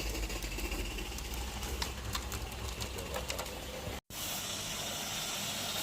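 Small live-steam garden-railway locomotive running, with rapid light clicking over a steady hiss of steam. About four seconds in, the sound cuts out abruptly and resumes as a steadier hiss.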